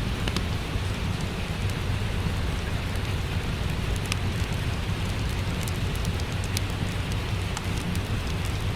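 Steady rain with a deep, even rumble underneath, mixed with sparse sharp crackles and pops from a wood fire in a fireplace.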